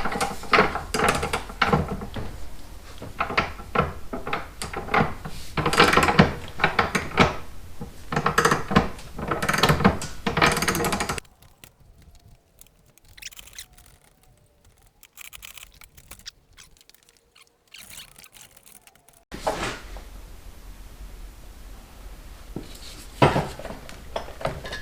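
Hand tools and metal parts knocking, clicking and scraping while a motorcycle engine is being disconnected, busy for about ten seconds, then dropping to near silence before a few quieter knocks near the end.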